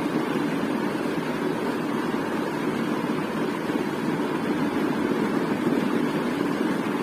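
Ceiling fan running steadily: an even whooshing hum of moving air and motor, with no changes.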